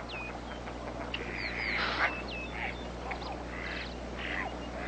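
Birds calling: repeated short, falling chirps and rougher calls, over a steady low hum.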